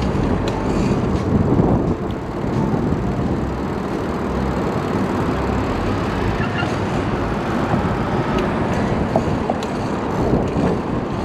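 Steady rumbling noise of riding a bicycle: wind buffeting the action-camera microphone together with tyre and road noise, with a few faint clicks.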